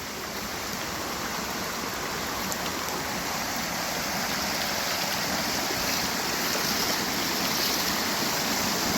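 Creek water rushing and flowing steadily over rocks, a constant rushing noise that grows gradually louder.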